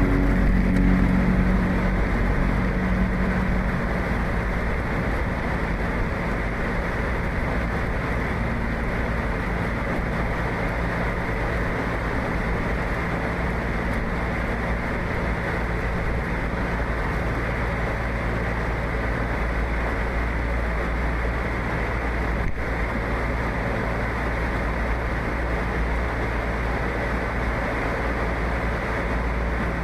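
A vehicle engine running steadily, with a constant rushing noise over it, typical of snow-clearing machinery at work. There is a single sharp click about three quarters of the way through.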